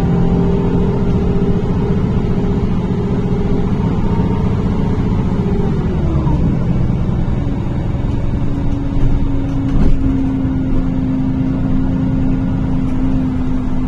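NefAZ-5299 city bus heard from inside, its engine running under way; about six seconds in the engine note drops, easing off, then a steady whine holds over the engine rumble.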